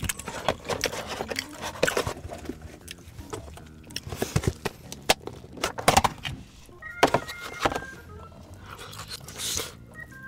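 Close-up eating sounds: a run of sharp clicks, crackles and crunches as crispy fried food is handled and bitten, with some light clinking.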